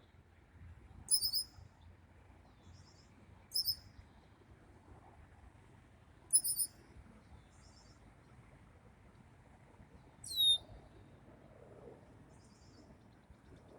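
Birds chirping: four short, very high-pitched chirps a few seconds apart, with fainter calls between them. The fourth chirp, about ten seconds in, is a quick downward sweep.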